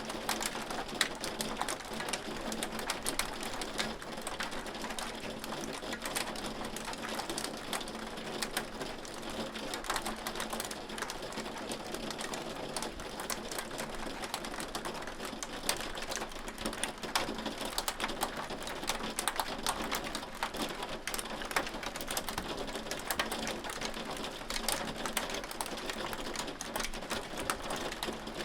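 Hail falling steadily: a dense, continuous clatter of hailstones striking, with many sharp ticks over a rain-like hiss.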